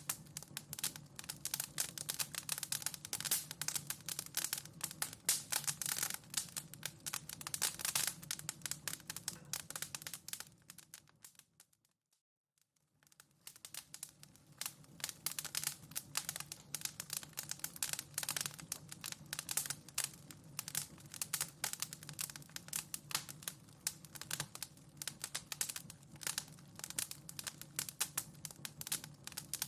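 Wood fire in a fireplace crackling with dense, rapid pops and snaps over a low steady hum. The crackling fades away almost to silence about midway, then fades back in.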